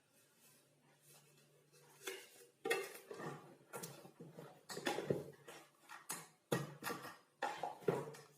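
Hard objects clattering and knocking together: about a dozen sharp strikes, irregularly spaced, starting about two seconds in.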